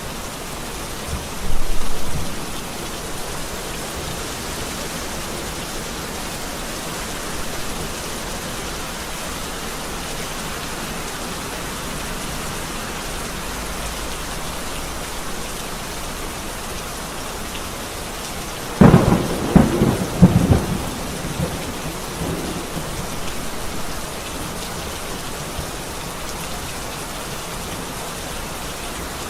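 Steady rain with thunder: one clap about two seconds in, and a sharper crackling thunderclap about two-thirds of the way through, several cracks in quick succession over about two seconds.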